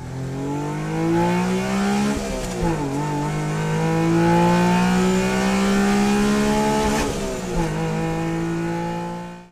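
1995 Subaru Impreza 555 WRC rally car's turbocharged flat-four engine under hard acceleration. The pitch climbs steadily and drops sharply at two upshifts, about two and a half seconds in and again about seven and a half seconds in.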